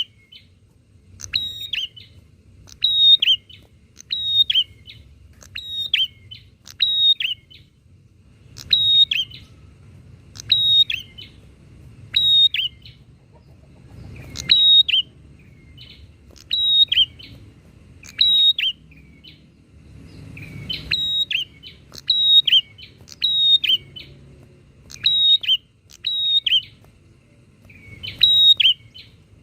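Prinias (prenjak) calling back and forth: short bursts of sharp, slightly falling chirps, often in pairs, repeating about every second or two.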